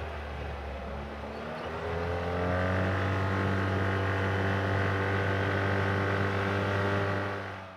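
Off-road ATV/UTV engine running under way. Its pitch sags over the first couple of seconds, climbs as it accelerates, then holds steady before fading out at the end.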